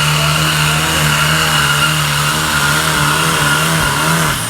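Pulling vehicle's engine held at high revs under the heavy load of a pull, steady and loud, then dropping off sharply just before the end as the throttle comes off.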